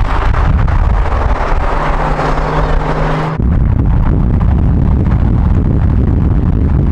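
Performance car engines running hard at racing speed, a loud steady engine and exhaust sound, with an abrupt shift to a heavier, deeper sound about three and a half seconds in.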